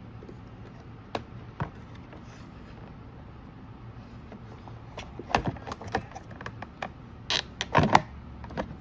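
Clicks and knocks of the Fantom Fury vacuum's plastic parts being handled: two single clicks early, then a run of sharper knocks, with the loudest clatter near the end.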